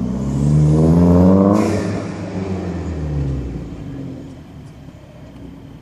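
A car accelerating hard past, its engine note climbing in pitch to a loud peak about a second in, then dropping and fading away as it leaves.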